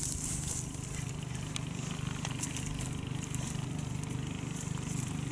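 A steady low engine-like hum with an even pulse, with a few faint clicks over it.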